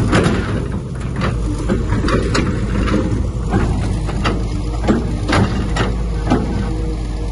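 Heavy diesel construction machinery running steadily with a low engine hum, over which irregular sharp metallic clanks come about once or twice a second.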